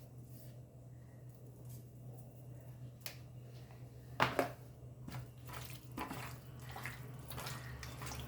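Hands mixing raw chicken pieces into a thick spice marinade in a bowl: faint wet squishing and small clicks, busier in the last few seconds, with one sharper knock about four seconds in. A low steady hum runs underneath.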